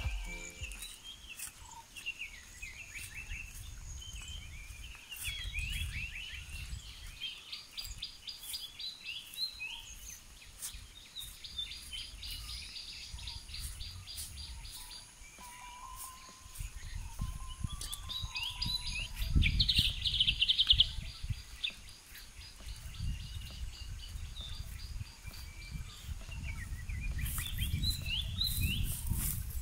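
Several birds chirping and trilling, with bouts of rapid repeated notes, over a low rumble that swells and fades and is loudest about two-thirds of the way through.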